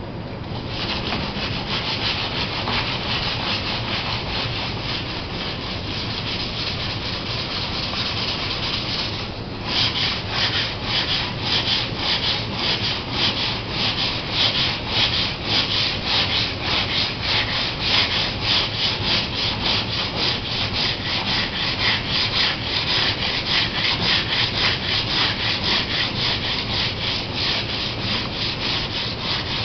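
80-grit wet/dry sandpaper being rubbed by hand over the painted fiberglass hull of a Laser sailboat, taking the paint down ahead of repainting. A steady scratchy hiss stops briefly about nine seconds in, then turns into quick back-and-forth strokes, two or three a second.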